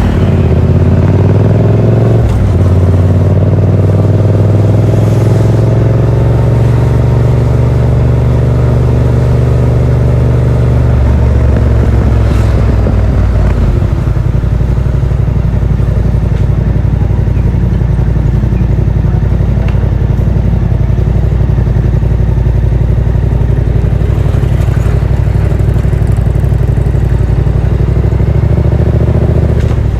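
Yamaha MT-07's parallel-twin engine through a Yoshimura R77 exhaust with the dB killer fitted, under way. The engine note climbs steadily for about eleven seconds, drops sharply, then runs at a steadier, lower pitch and lifts a little near the end.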